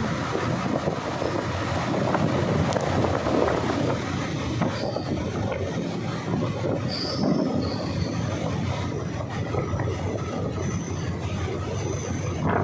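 Train running along the track: a steady rumble of wheels and coaches, with brief faint high squeals from the wheels now and then.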